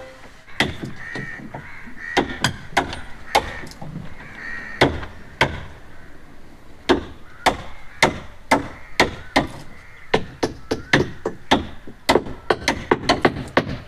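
Hand tools striking the timber of a traditional wooden boat under construction: a run of sharp, irregular knocks, one to three a second, coming faster near the end.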